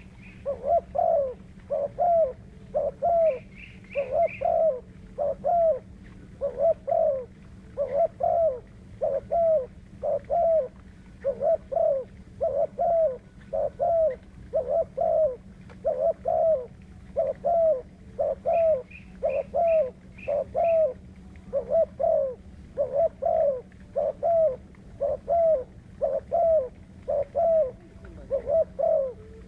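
Spotted dove cooing over and over in quick repeated phrases with a steady low hum behind. Short runs of high chirps come in a few seconds in and again about two-thirds through.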